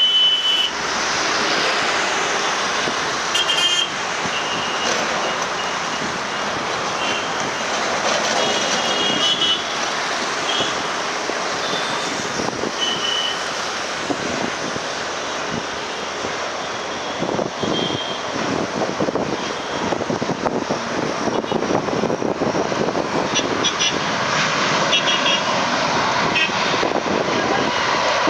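Jet airliner engine noise, a steady even rush that grows louder over the last few seconds, mixed with road traffic noise and a few short high beeps.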